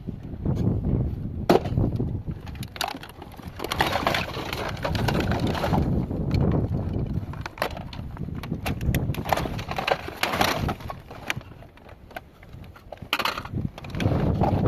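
An object being smashed and broken apart: repeated sharp cracks and snaps with stretches of crunching, the sharpest crack about a second and a half in.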